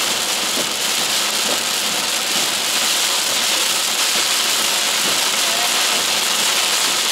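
Torrential rain hitting a moving car's roof and windshield, heard from inside the cabin as a steady, dense hiss that grows slightly louder a couple of seconds in.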